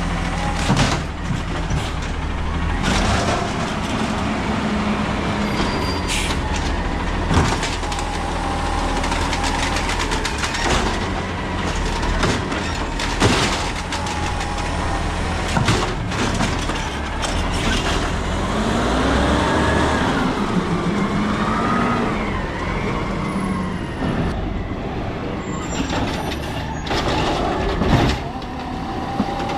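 Peterbilt 320 garbage truck with an Amrep automated side-loader body at work: the diesel engine runs steadily under repeated metallic clanks and bangs. About two-thirds of the way through, a whine rises and falls.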